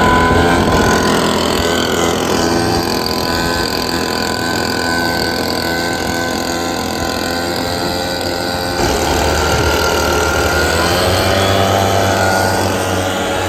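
Small engine of lawn equipment running steadily, with an abrupt change in its sound about nine seconds in.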